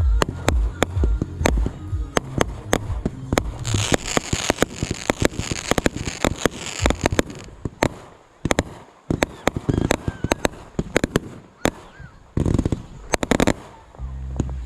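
Fireworks going off in quick succession: many sharp bangs and pops, with a dense stretch of crackling about four to seven seconds in.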